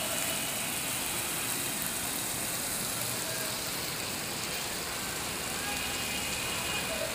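Steady sizzling of onion, garlic and ginger masala frying in hot oil in an electric cooker pot as raw chicken pieces are added to it.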